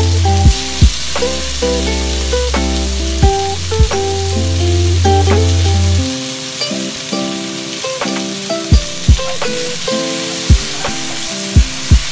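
Tomatoes and onions sizzling in oil in a wok while being stirred, under background music with a plucked melody and drum beats; the bass line drops out about halfway through.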